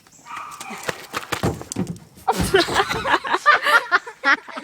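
A run of knocks and scuffs, then a heavy thump a little past two seconds in, followed by loud, breathless laughing.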